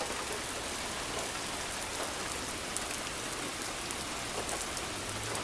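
Rain falling steadily, with many individual drops ticking sharply through the hiss.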